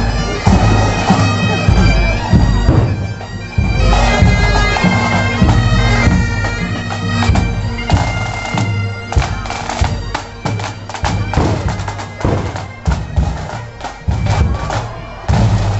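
Bagpipes playing a tune over their steady drones. Many sharp hits come in about halfway through.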